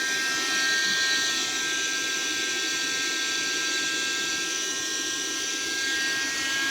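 Electric air pump on suction, drawing the air out of an airbed to deflate it: a steady motor whine over a rush of air.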